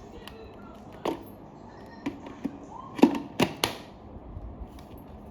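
Cordless vacuum parts and packaging being handled and set down while unboxing: a run of sharp knocks and clicks, six or so over about three seconds, the loudest about three seconds in.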